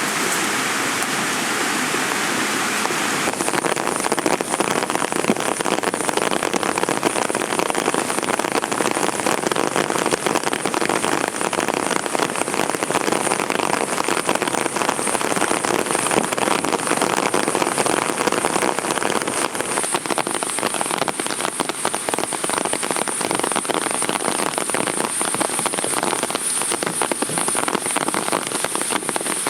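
Heavy rain falling steadily, a dense patter of drops. The sound shifts in character about three seconds in.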